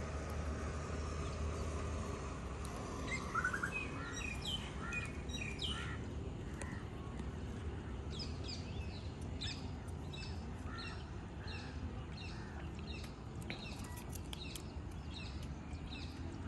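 Birds chirping repeatedly in short notes, about two a second through the middle, over a quiet outdoor background; a low hum fades out about three seconds in.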